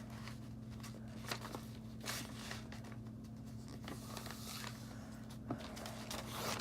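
Faint rustling and scratchy creasing of a sheet of paper being folded into a paper airplane, over a steady low hum.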